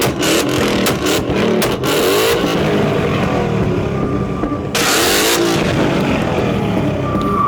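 Ford Mustang exhaust revving, with rapid pops and crackles in the first couple of seconds and the revs rising and falling. About five seconds in there is a louder rush of exhaust noise.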